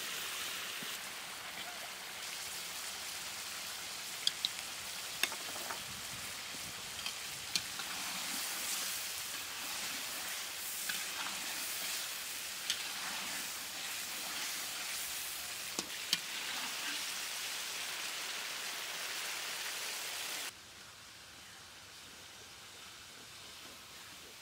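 Fish pieces sizzling in hot oil and spice paste in a metal wok, with a spatula clicking and scraping against the pan now and then. About twenty seconds in the sizzle drops suddenly to a fainter hiss.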